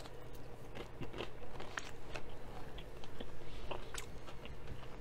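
Chewing a bite of breaded fried chicken tender, with scattered soft clicks and wet mouth sounds. The breading is not crunchy in the slightest.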